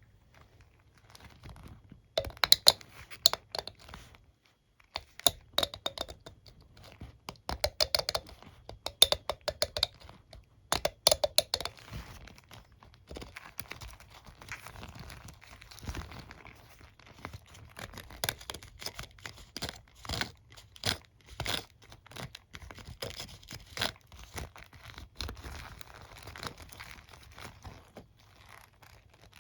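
Fingers scratching and flicking across a hairbrush's bristles, giving quick runs of crisp clicks and crackles, louder in bursts in the first half and softer, closer scratching after.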